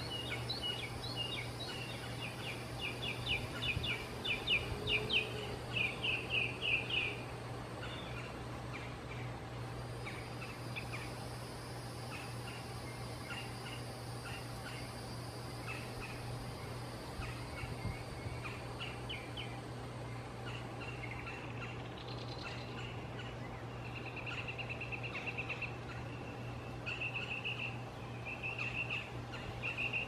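Bird calls in quick chattering runs of high notes, loudest in the first several seconds, then scattered notes and a few buzzy runs near the end, over a steady low hum.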